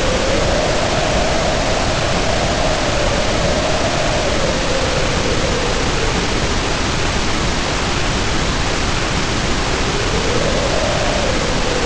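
Storm ambience: heavy rain pouring steadily under a howling wind. The howl wavers up and down in pitch, dies away about halfway through and swells back near the end.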